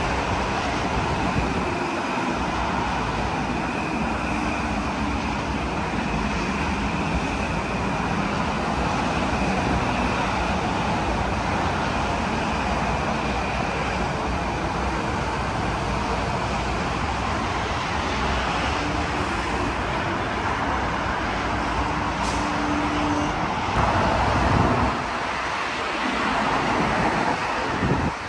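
Metro-North M8 electric multiple-unit train moving past close alongside the platform: a steady rumble of wheels on rail, with a brief louder swell about three-quarters of the way through and a drop in loudness as the last car clears at the end.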